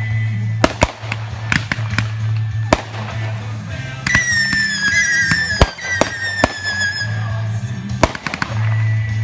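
Aerial fireworks going off: a run of sharp bangs and crackles, with a high whistle that slides slowly down in pitch from about four seconds in and lasts some three seconds.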